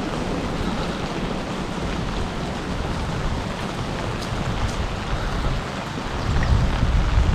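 Heavy rain falling steadily, with a low wind rumble on the microphone that grows stronger near the end.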